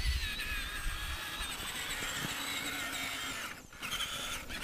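Traxxas Summit RC truck's electric motor and geartrain whining at speed, high-pitched and steady. It cuts out for a moment about three-quarters of the way through as the throttle eases, then picks up again.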